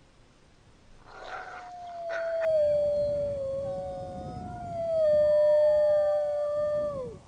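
A canine howling: long drawn-out howls that begin about a second in, each holding a nearly steady pitch before dropping away, the howls overlapping in the middle, with the last one falling off just before the end.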